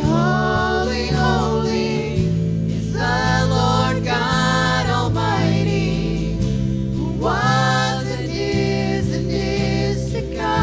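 Gospel-style worship song: voices singing long sustained phrases over steady instrumental chords and bass.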